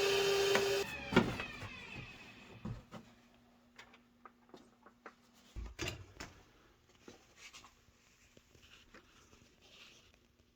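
A steady motor sound cuts off less than a second in and its pitch falls away as it winds down. Then come scattered light clicks and knocks of objects being handled, over a faint steady hum.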